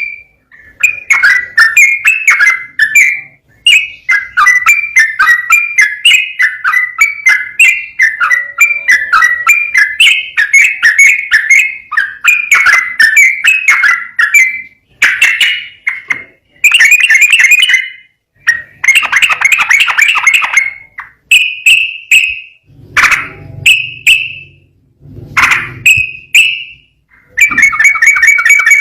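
Yellow-vented bulbul (trucukan) singing a rapid, continuous run of bubbly whistled notes in long phrases. From about 21 seconds in, the song breaks into shorter phrases with brief pauses between them.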